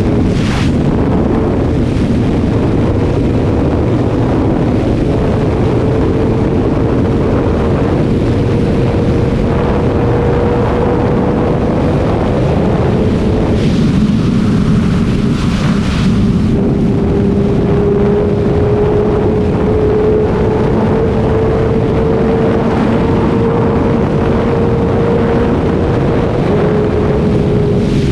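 Kawasaki ZX-6R 636 inline-four engine running at speed on the highway, its note climbing slowly, dropping in pitch about halfway through and again near the end. Heavy wind noise on the microphone.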